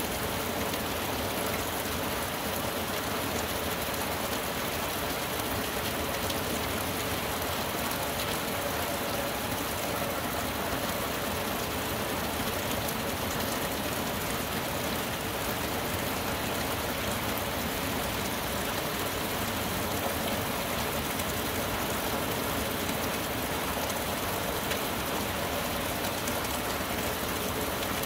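Steady tropical-storm rain falling on a pine forest and its foliage, an even, unbroken hiss that keeps the same level throughout.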